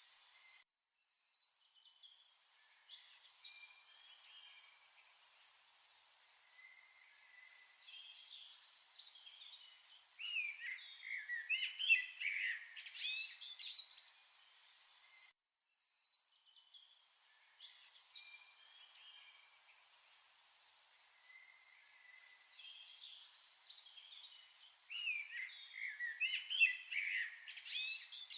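Birds chirping and singing, several short calls overlapping, busiest about ten seconds in and again near the end. The same stretch of birdsong starts over about halfway through, as a looped ambience track does.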